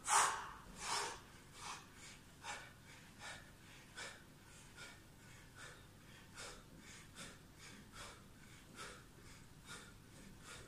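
A person breathing hard in short, sharp breaths, one with each repetition of a sit-up or leg-raise exercise, a little more than one a second; the first few are the loudest.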